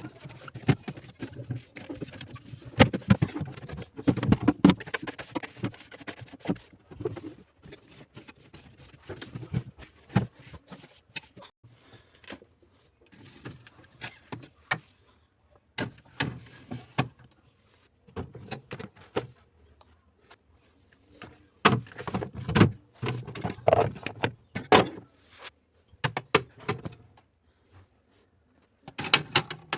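Irregular clinks, knocks and rattles of containers and jars being handled and set down while a refrigerator is organised, in bursts with short lulls between.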